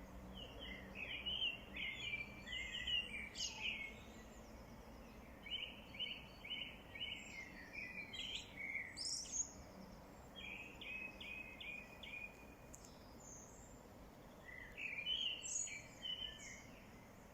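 A songbird singing in four phrases of quick, repeated chirping notes with short pauses between them. Under it is a faint, steady outdoor background.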